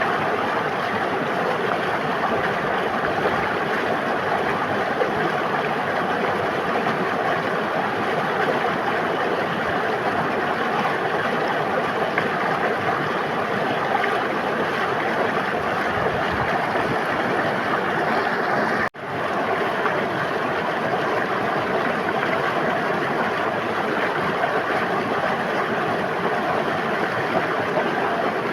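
A river flowing, a steady, even rush of water. It cuts out for an instant about two-thirds of the way through and fades straight back in.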